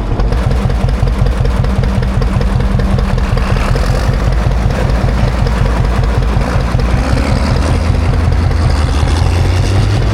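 Classic John Deere tractor engine running with an even, pulsing beat while plowing snow, its note growing stronger in the last few seconds as it works.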